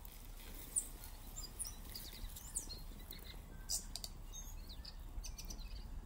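Small birds calling in garden trees: scattered short high chirps and whistles, a few louder ones standing out, over a low steady rumble.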